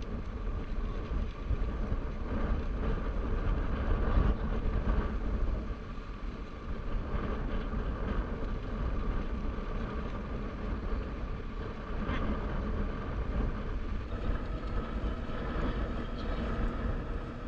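Motorcycle engine running steadily, with a deep rumble underneath.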